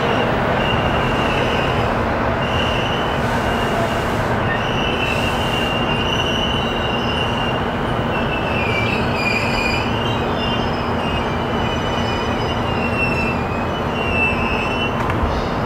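Keihin-Tohoku Line electric commuter train running along the track, heard from inside the car: a steady rumble of wheels and running gear, with a high wheel squeal that comes and goes and wavers in pitch midway.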